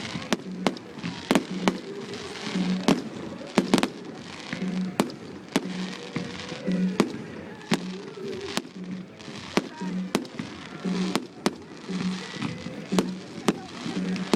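Fireworks display: many sharp, irregular bangs, several a second, with crackling between them, over music with a steady beat.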